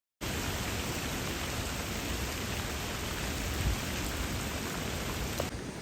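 Typhoon storm outside: heavy rain and wind making a dense, steady hiss with a low rumble. It starts suddenly just after the beginning, and its tone shifts abruptly near the end.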